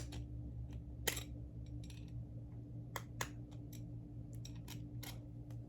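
Scattered light clicks and scrapes of hand tools working at a stuck part of a Hoover Convertible vacuum cleaner, over a steady low hum.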